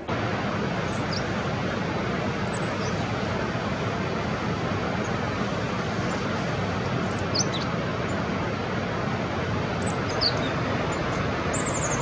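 A steady rushing background noise with a few short, high songbird chirps scattered through it, about half a dozen in all.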